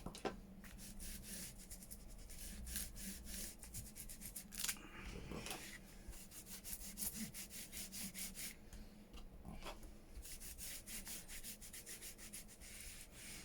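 Faint rubbing and scratching on paper, a quick run of short strokes from hand work on a paper journal page.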